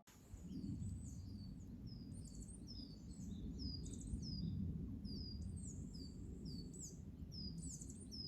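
Songbirds singing: a string of short, high chirps, each falling in pitch, two or three a second, over a steady low rush.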